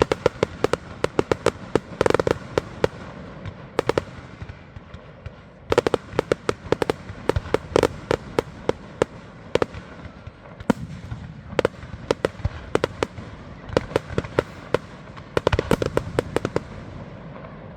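Professional display fireworks going off in rapid volleys of sharp bangs, in three bursts of quick-fire shots separated by short lulls.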